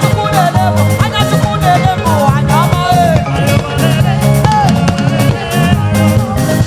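Live praise band playing an upbeat instrumental groove, with a drum kit beating steadily under a bass line and melodic instruments.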